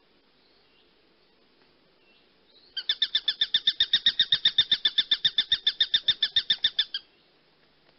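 A bird's call: a rapid, evenly paced chatter of short, high, sharp notes, about ten a second, starting roughly three seconds in and lasting about four seconds, after a few faint chirps.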